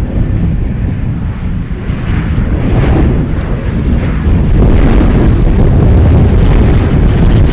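Aircraft engine noise, a heavy low rumble that grows steadily louder and stays loud near the end.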